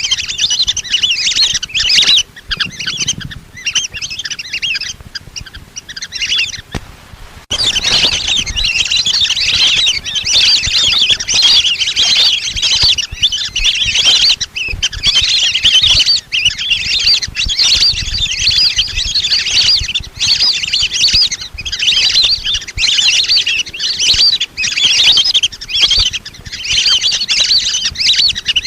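A flock of lesser whistling ducks calling without pause, a dense chorus of high whistled calls, with a brief dip about seven seconds in.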